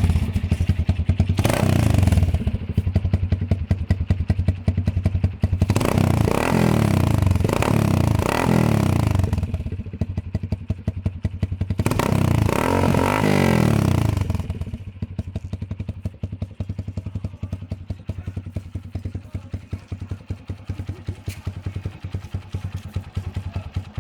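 TVS Flame's 125 cc single-cylinder engine, with its exhaust set up for a Harley-like sound, being revved up and down in several bursts in the first half. It then drops back to an uneven, thumping idle.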